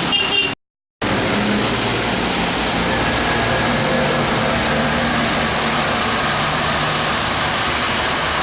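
Traffic passing on a rain-wet expressway: a steady hiss of tyres on wet pavement and rain, with a low engine hum underneath. The sound cuts out completely for about half a second near the start, then resumes.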